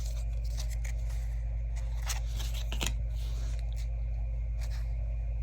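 Trading cards being handled and flipped through, light clicks and papery rustles of cards sliding against one another, over a steady low hum.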